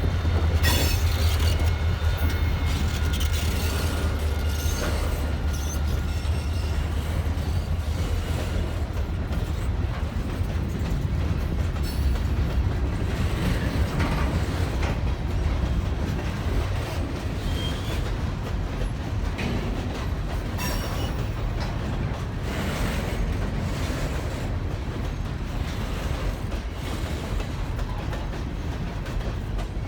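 Freight train of ballast cars rolling along the rails: a steady low rumble with scattered clicks and clatter from the wheels and cars.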